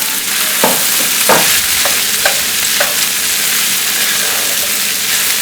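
Potato stuffing sizzling in hot oil in a pan while being stirred with a spatula: a steady frying hiss with about five short knocks of the spatula on the pan in the first three seconds.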